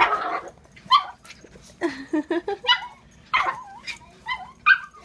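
A dog, likely a puppy, yipping and barking in play: a string of short, high calls with a louder burst at the start.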